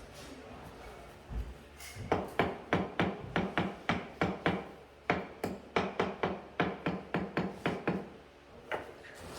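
Rapid hammering: a run of sharp, evenly paced strikes, about four or five a second, starting about two seconds in and stopping about a second before the end.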